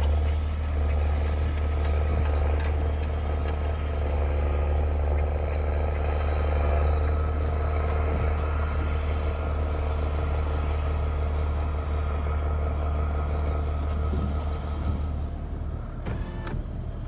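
Vehicle engine running steadily: a strong low drone with a steady whine above it, which eases off near the end.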